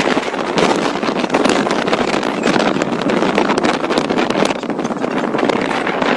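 Steady rushing of wind buffeting the microphone, with a dense crackle throughout.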